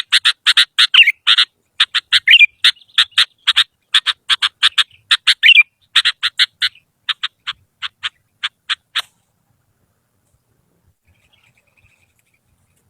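Sooty-headed bulbul (kutilang) calling in a fast run of short, sharp, repeated notes, about four a second, with a few slurred notes among them. It stops about nine seconds in, and there is a faint chirp near the end.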